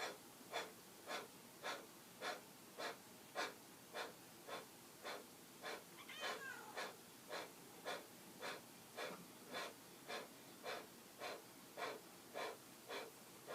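Kapalabhati (skull shining breath) pranayama: a steady run of short, forceful exhales puffed out through the nose, a little under two a second, about two dozen in all, each driven by a thrust of the low belly.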